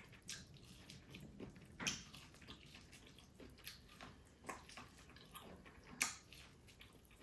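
Faint, wet eating sounds from a meal of crab and corn: irregular soft smacks and clicks, the loudest about two seconds in and again about six seconds in.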